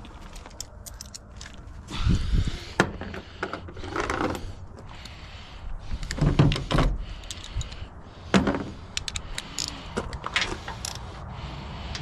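Metal hand tools clinking and clattering, with irregular sharp clicks and several heavier clunks and scrapes, as a stubborn bolt is worked on with a ratchet.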